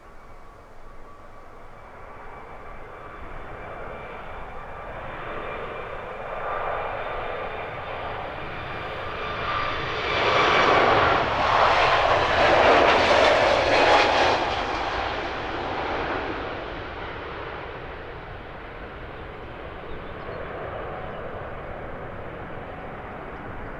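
Airbus A321neo's twin turbofan engines at take-off thrust as the airliner passes. The jet noise comes with a thin, steady whine, swells to a loud peak about halfway through, then slowly fades.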